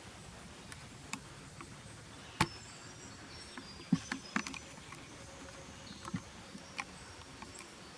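Quiet backyard ambience with faint, thin, high bird calls and several short sharp clicks, the loudest about two and a half seconds in.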